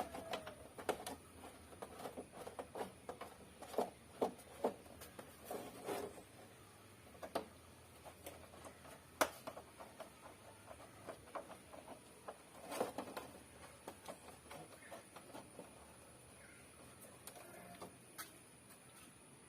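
Faint, irregular light clicks and taps, with one sharper knock about halfway through and a short cluster a few seconds later, from hands working on the plastic parts of an old fridge door.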